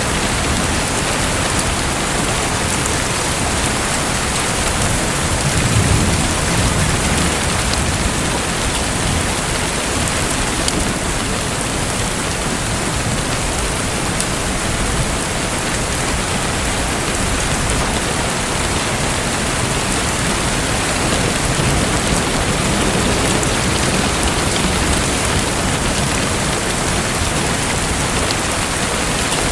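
Steady rushing, splashing water like heavy rain, with a short low rumble about six seconds in.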